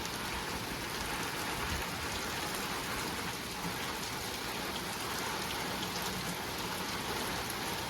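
Steady rain falling, an even patter that holds at one level throughout.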